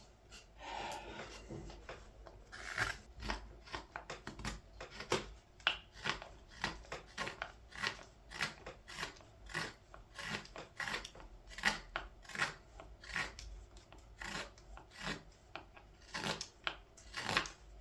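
A scorp cutting into green wood to hollow the bowl of a ladle: a long run of short scraping cuts, somewhat under two a second, unevenly spaced.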